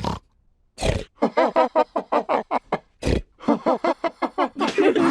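Cartoon pig characters snorting and laughing. A snort is followed by a run of quick, rhythmic laughs, then another snort and more laughing, with several voices laughing together near the end.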